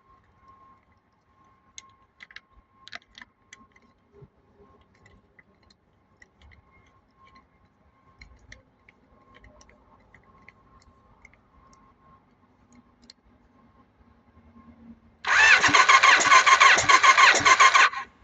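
Kawasaki ZZR1100 inline-four engine starting up about fifteen seconds in, running loud and uneven for about three seconds, then cutting off abruptly. Before it, only faint ticking.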